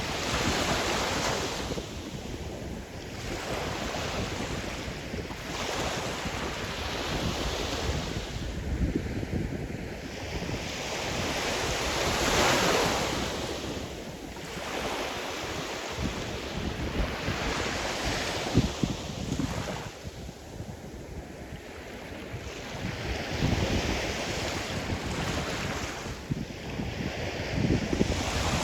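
Sea surf: waves breaking and washing in, swelling and fading every few seconds, with the largest surge about twelve seconds in. Wind buffets the microphone throughout.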